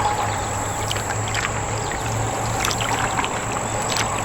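Water trickling and splashing in small drips around a kayak on a creek, irregular short splashes over a steady hiss and a low steady hum.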